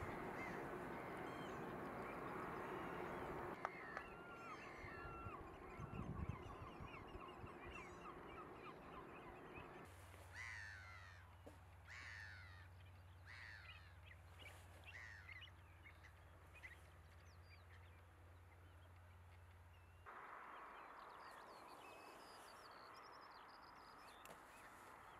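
Birds calling, a series of short chirps and quick falling calls repeated through the stretch, over a low rushing background noise. A low steady hum sits under the calls in the middle section.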